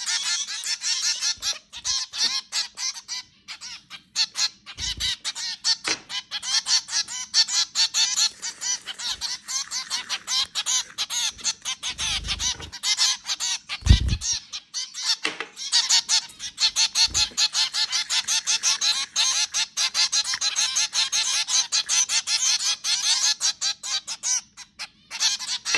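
Several zebra finches calling almost without pause: rapid, overlapping short nasal beeps and chatter. A few low thumps break in, the strongest about halfway through.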